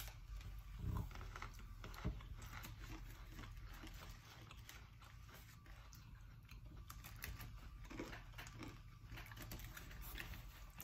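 Faint, crisp crunching of a saltine cracker sandwich with cheese filling being bitten near the start and then chewed, an irregular run of small crackles.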